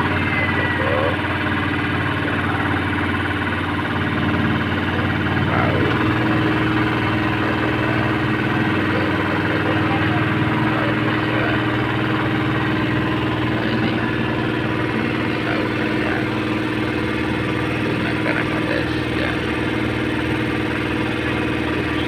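Ferry boat's engine running steadily, its note shifting slightly about six seconds in.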